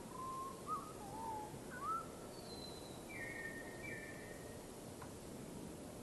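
Birds calling: a few short, slurred whistles in the first two seconds, then a few higher, thinner notes, over a steady background hiss.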